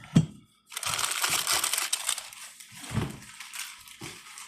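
Packaging being crinkled and handled: a dense crackling rustle for about two seconds that then fades in short bursts, with a few soft thumps as things are set down.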